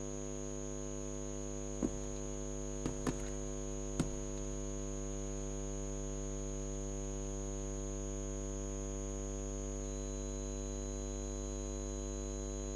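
Steady electrical mains hum, a buzz made of many even tones, with a few faint clicks about two to four seconds in.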